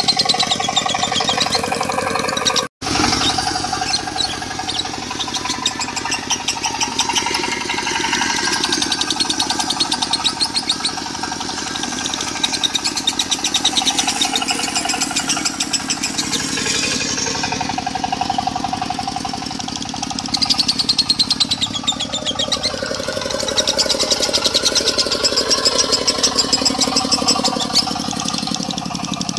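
Lovebirds chattering rapidly and continuously in the 'konslet' style over a steadily running diesel engine. The sound cuts out completely for an instant about three seconds in.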